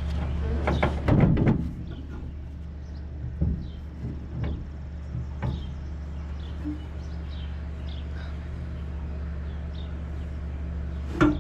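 Metal knocks and clunks as a steering rack is handled and set into position for test-fitting. There is a loud clatter of hits about a second in, a few light taps in the middle, and a sharp metallic clank near the end that rings briefly. A steady low hum runs underneath.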